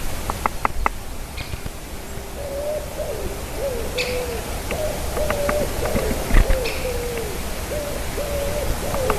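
A series of low hooting calls from about two and a half seconds in, some notes held level and some sliding down, typical of an owl. Short, sharp high chip notes sound now and then over a steady outdoor hiss.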